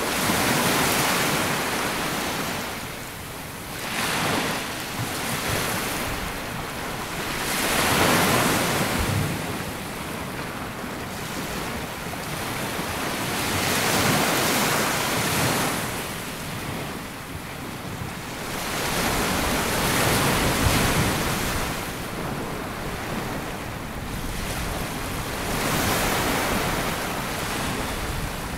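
Sea waves breaking and washing up a sandy beach, the rush of water swelling and falling back in surges every several seconds.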